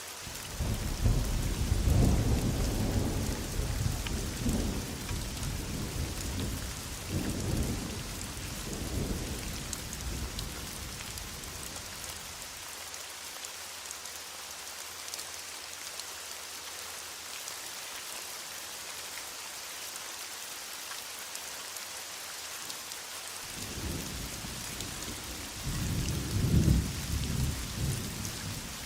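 Heavy rain falling steadily, with a long roll of thunder through roughly the first ten seconds and another roll beginning near the end.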